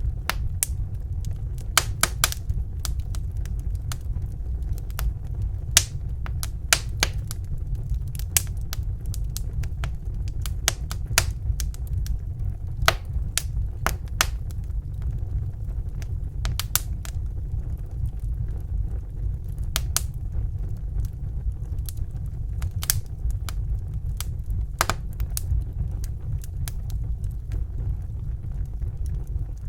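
Wood fire burning in a fireplace: a steady low rumble of flames with irregular sharp crackles and pops, sometimes two or three close together.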